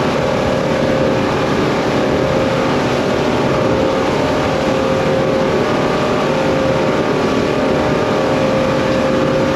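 Twin Yamaha F200 four-stroke outboard motors on a WorldCat 280DCX catamaran running steadily at cruise speed. A steady engine tone sits over a constant rushing noise.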